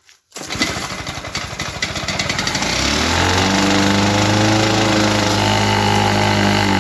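Lawn-Boy 8157 push mower's two-stroke engine starting about half a second in, speeding up over the next few seconds, then running steadily at high speed.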